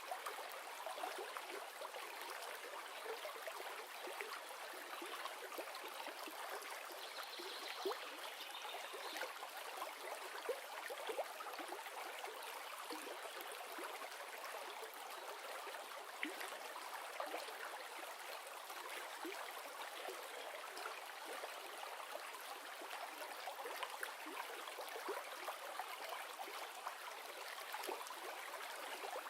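River water flowing and splashing steadily, an even rushing sound with many small splashes and no low rumble.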